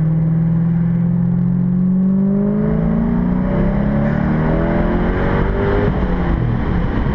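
Twin-turbocharged 2010 Corvette Grand Sport V8 accelerating under low boost, heard from inside the cabin: the engine note rises steadily in pitch for several seconds with a growing rush of turbo spool-up as boost comes on, then drops back near the end.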